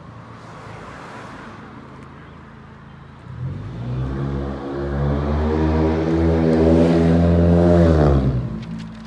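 A motor vehicle's engine accelerating close by, coming in about three seconds in and rising slowly in pitch as it gets louder, then dying away quickly near the end. A fainter rush of traffic comes before it.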